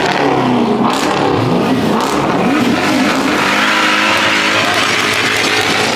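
Car engine revving: its pitch rises and falls several times, then holds steady at a high rev for the last few seconds.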